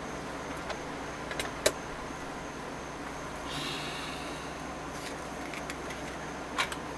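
A few sharp clicks and taps of small hard parts being handled, the loudest about a second and a half in and another near the end, with a short scraping squeak around the middle, over a steady low hum.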